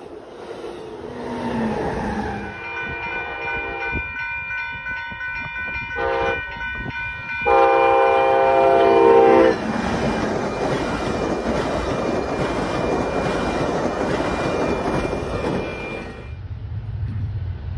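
Passenger train's horn sounding several blasts, the last one loud and close. The train then rushes past with steady wheel and rail noise, which drops away near the end.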